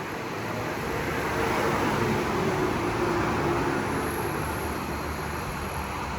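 A motor vehicle going by, its engine and tyre noise swelling to a peak a second or two in and then easing off.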